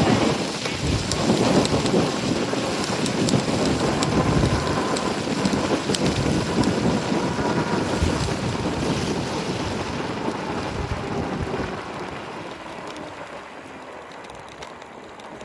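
Heavy wind buffeting the microphone of a rider on an e-bike at speed, a dense rumbling rush that dies down over the last few seconds.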